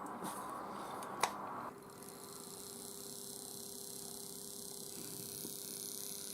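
A single click about a second in, then a faint steady electric hum with a high hiss comes on just under two seconds in, from the model railway test setup as power is applied.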